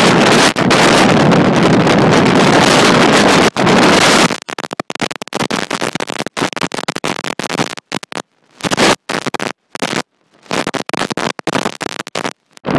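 Strong blizzard wind blasting a phone's microphone. It is a loud, steady rush for about the first four seconds, then cuts in and out in rapid, choppy gusts with brief dropouts.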